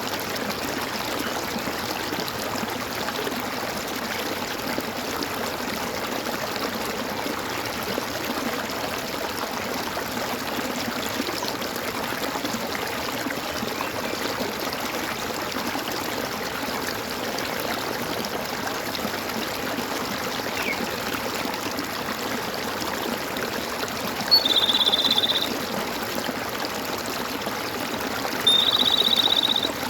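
Water gurgling and running steadily, as in a stream. Near the end, a high animal call about a second long comes twice, louder than the water.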